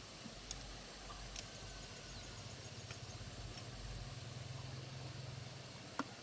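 A few faint, scattered knocks of a blade chopping into tree wood, with one sharper knock near the end. Under them, from about two seconds in, a low steady motor hum.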